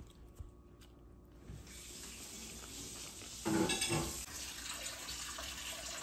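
Kitchen faucet running into a stainless-steel sink, a steady rush of water, with a brief louder noise about three and a half seconds in.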